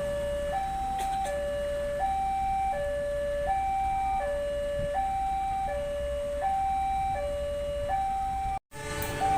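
Railway level-crossing warning alarm sounding a steady two-tone electronic signal, alternating high and low notes, each held a little under a second, warning that a train is approaching. It cuts out for an instant near the end.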